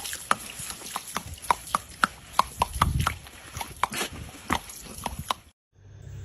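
A quick, irregular run of sharp, ringing knocks or taps on a hard surface, about three to four a second, stopping abruptly about five and a half seconds in.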